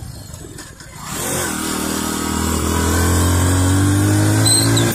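Motorcycle engine accelerating under load. From about a second in, its pitch rises steadily and it grows louder.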